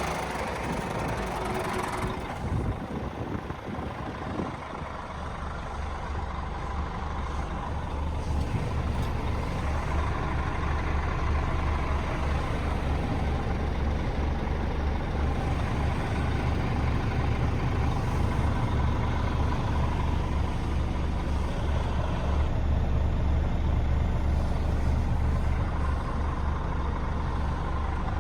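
Scania G410 truck's 13-litre six-cylinder diesel engine idling steadily, a low even hum that firms up about four seconds in.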